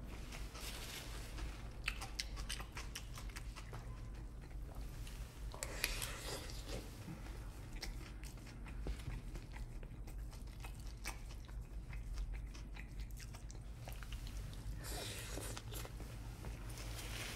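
Close-up chewing and biting of a rice, steak and vegetable burrito bowl, with a metal spoon scooping through the food in the bowl, as many small clicks and a few longer scraping bursts, about six seconds in and again near the end, over a steady low hum.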